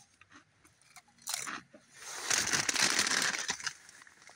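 Crunchy snack food being bitten and chewed close to the microphone: a short crunch about a second in, then a loud spell of crunching from about two seconds in to past three.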